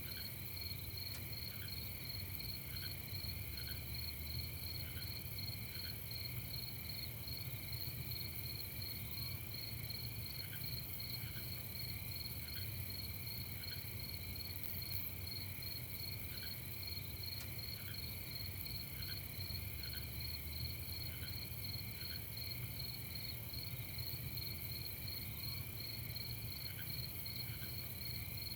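A night chorus of crickets chirping: steady, rapid pulsing trills at several high pitches. Short, lower chirps come in scattered groups, over a faint low rumble.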